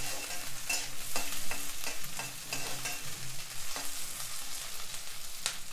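Sliced onions and green chillies sizzling in hot oil in an iron kadai, with a steel spatula stirring them and scraping and tapping against the pan several times, the sharpest knock near the end.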